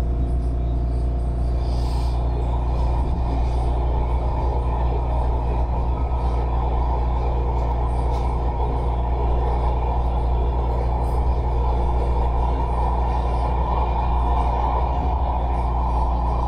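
MARTA rapid-transit train running along the track, heard from inside the car: a steady low rumble with a few steady tones above it.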